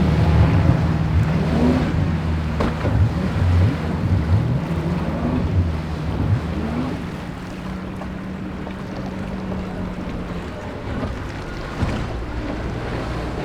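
Powerboat engines running as the boat crosses rough inlet waves, the pitch rising and falling repeatedly as the throttle is worked over the swells, then settling to a lower, steadier hum about seven seconds in. Surf and wind on the microphone underneath.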